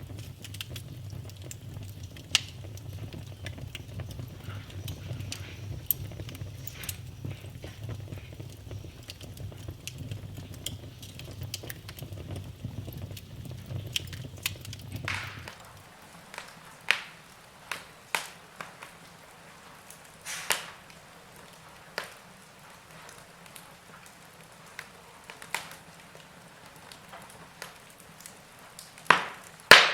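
Wood fire burning in a fireplace, crackling with sharp pops and snaps of burning logs. A low steady rumble of flame under the first half stops suddenly about halfway, leaving sparser, louder pops.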